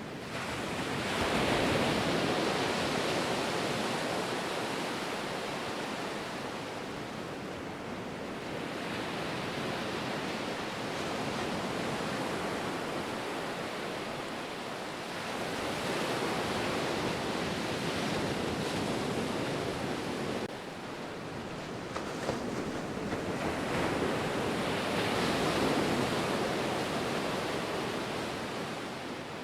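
Ocean surf: a continuous rush of breaking waves that swells and fades in slow surges every several seconds, with a sudden drop in level about twenty seconds in.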